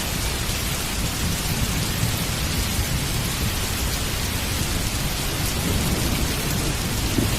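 Heavy rain falling steadily, with a low rumble of thunder beneath it that builds near the end.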